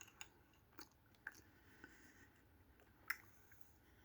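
Faint chewing of an ice cream sandwich: a few soft, scattered mouth clicks and smacks, the sharpest about three seconds in.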